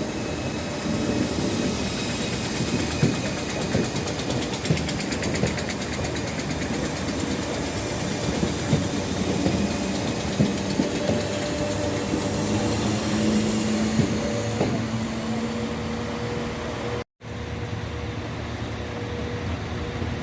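A train running at a station: steady engine and rail noise with a faint held hum. The sound drops out completely for a moment near the end.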